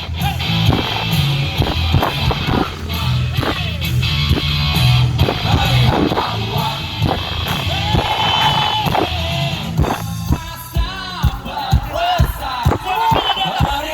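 Live rock band playing with a singer. About ten seconds in the heavy bass drops away, leaving sharp, regular hits under the singing.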